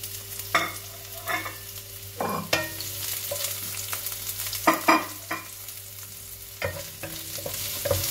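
Chopped garlic and onion sizzling in hot oil in a frying pan, a steady hiss, stirred with a wooden spatula. About eight sharp clinks and knocks of kitchenware break through it, two of the loudest close together a little past the middle, over a low steady hum.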